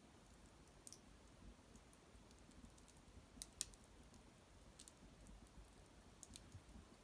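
Small wood fire crackling faintly: a few sparse, sharp pops and ticks over low room quiet, the loudest about three and a half seconds in.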